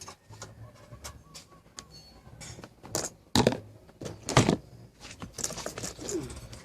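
Scattered light clicks and knocks of objects being handled, with two louder knocks about a second apart in the middle.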